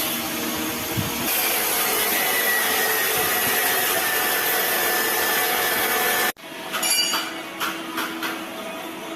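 Metalworking shop noise: a power tool runs with a continuous harsh rasp, which cuts off abruptly about six seconds in, followed by lighter irregular knocks and taps.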